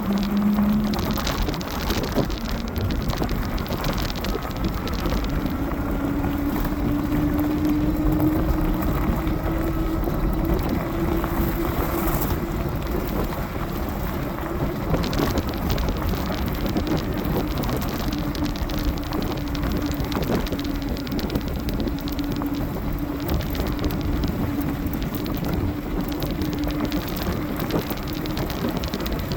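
Dual hub motors of a 60-volt fat-tire electric bike whining at a steady pitch under way, the whine drifting slowly up and down with speed, over a constant rushing hiss of wind and tyres.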